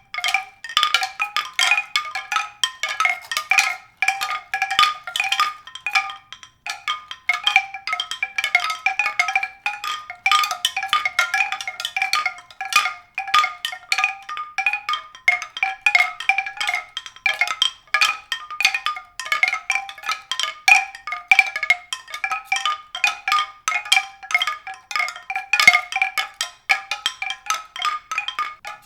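Mallet percussion music: a continuous stream of quick, high struck notes, several a second, with no low notes.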